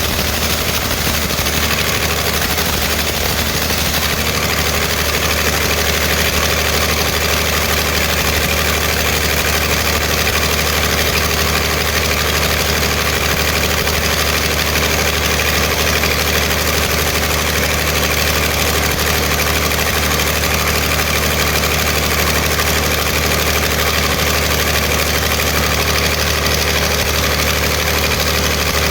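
Freshly overhauled Perkins 1306-series six-cylinder diesel engine of a 275 kVA generator set, running at a steady speed.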